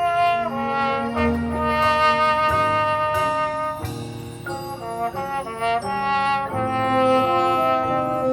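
High school marching band playing: the brass section holds loud sustained chords, with sharp percussion hits where the chords change.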